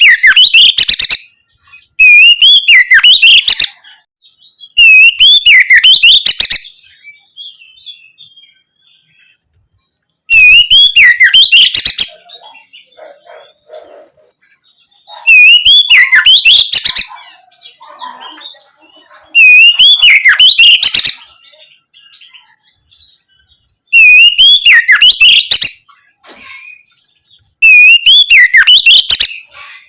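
Oriental magpie-robin (kacer) singing loud, full song phrases of about a second and a half to two seconds, repeated roughly every four seconds, with faint soft calls in the gaps between.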